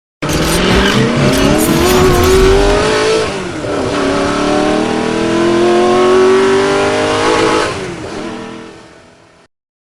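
A car engine accelerating hard, its note rising steadily, dropping as it shifts about three seconds in, then climbing again through the next gear before fading out.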